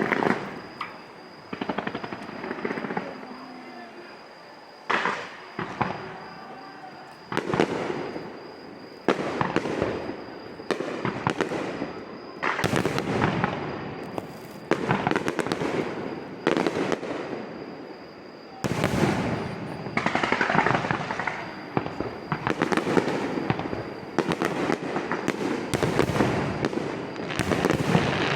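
Aerial fireworks bursting in a rapid series, a sharp bang every second or two, each trailing off in crackle and echo.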